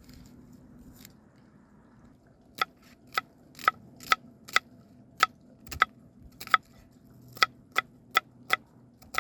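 A knife chopping on a cutting board: a run of about a dozen sharp strikes, roughly two a second, starting about two and a half seconds in.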